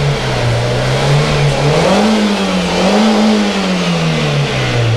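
Fiat Palio's Fire four-cylinder engine being revved up and down several times, its pitch rising and falling, then dropping back near the end.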